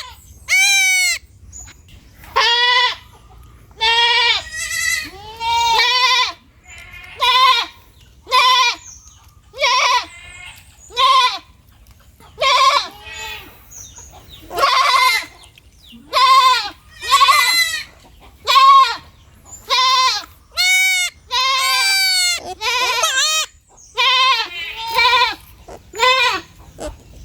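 Baby goat bleating over and over, about twenty high-pitched calls with short gaps between them, most under a second long and a few held longer.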